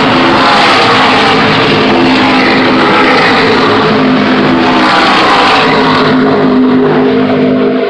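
NASCAR stock cars' V8 engines at racing speed, a pack of cars passing one after another, each engine note dropping in pitch as it goes by; loud and continuous.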